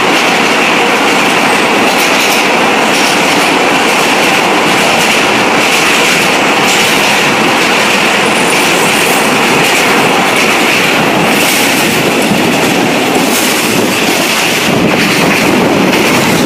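State Railway of Thailand rapid train running steadily on the rails: a loud, even rolling noise with a high hissing band and scattered clicks from the wheels and track.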